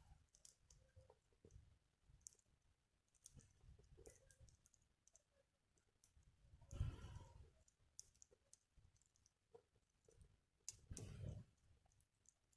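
Wood fire burning in a Picogrill 398 fire pit, quietly crackling with sparse, irregular pops and clicks. Two brief, soft low rushes of noise come about 7 seconds and 11 seconds in.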